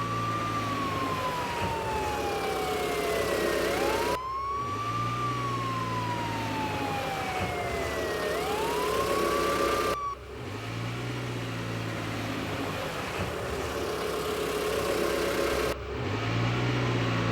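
Fire truck siren wailing: each cycle rises quickly, then falls slowly, and repeats about every four seconds over a low engine rumble, with a few abrupt cuts between cycles.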